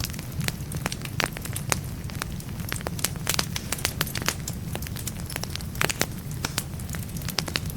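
Wood fire burning in a fireplace, logs crackling and popping in quick, irregular snaps over a steady low rumble of the flames.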